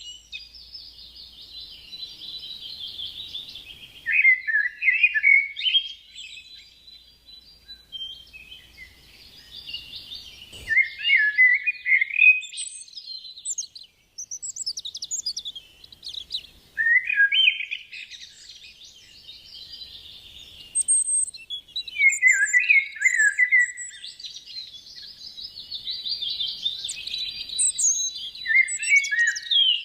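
A bird singing: repeated phrases of quick high twittering that drop into lower falling notes, about every five to six seconds with short pauses between.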